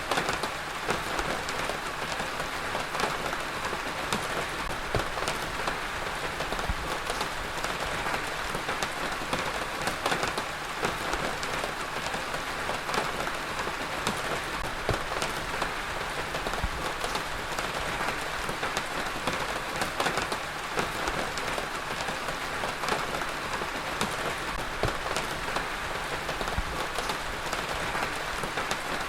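Heavy rain falling steadily on a hard surface, a dense even hiss with many sharp individual drop impacts.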